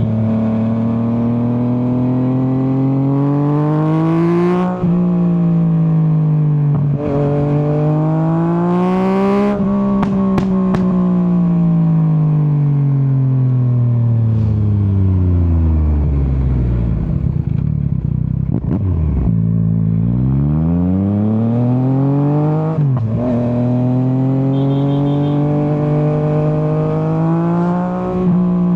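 Yamaha MT-09 inline-three engine and exhaust under acceleration, pulling up through the revs with quick upshifts about five and twenty-three seconds in. In between it comes off the throttle with a few crackles and winds down slowly to a low rumble, then pulls hard again.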